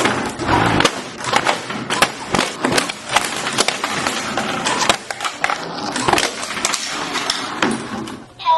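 Lawnmower running over and chewing up a plastic toy: a dense, irregular clatter of hard knocks and rattling.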